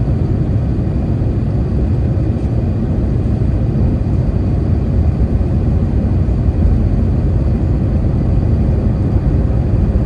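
Steady low rumble of airliner cabin noise aboard an Airbus A321 in flight, with jet engine and airflow noise running evenly.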